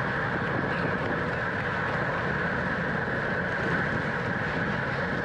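Steady rush of wind over the microphone mixed with the tyre and drivetrain noise of a road bike riding at race speed.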